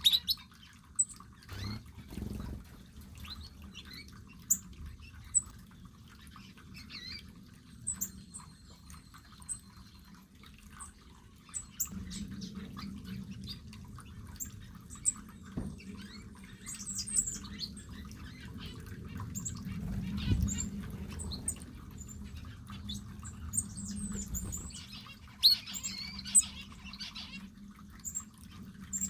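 A mixed flock of small aviary birds calling: many short, high chirps and squawky calls overlapping at irregular intervals, over a faint steady low hum.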